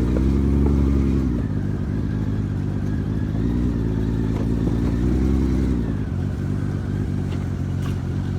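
Honda Valkyrie's flat-six motorcycle engine pulling away at low speed, its revs rising and falling about four times as the throttle is opened and eased off.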